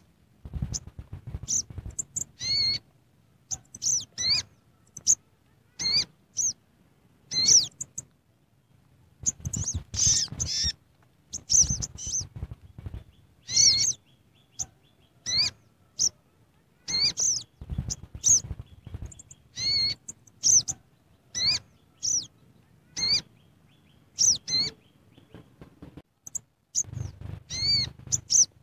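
A bird chirping over and over, short downward-sweeping chirps every second or two. Clusters of dull low knocks or rustles come between them.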